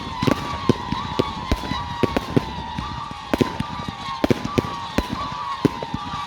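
Fireworks display: rapid, irregular bangs and cracks from exploding shells, several a second. Behind them runs a continuous shrill whistle that wavers up and down in pitch.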